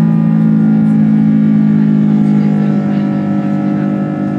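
Airbus A330-300's Rolls-Royce Trent 700 jet engines running, heard inside the cabin as a steady droning hum with several held tones. About three seconds in, the tones shift slightly and the sound eases a little.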